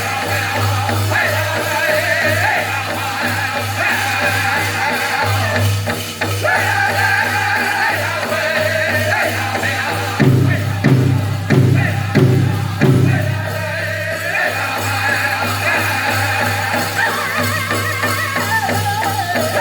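Powwow drum group singing in high voices over a steady beat on a large drum. About halfway through, four louder, heavier strikes stand out from the beat.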